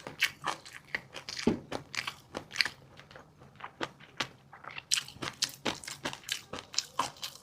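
Close-miked chewing of fish roe and crunchy seafood topping: quick, irregular crunches and small sharp pops, several a second.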